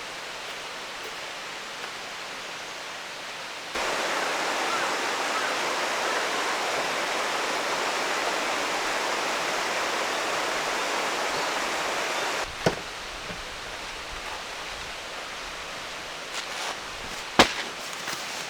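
Steady rushing of a valley stream, louder through the middle stretch, with two sharp clicks near the end.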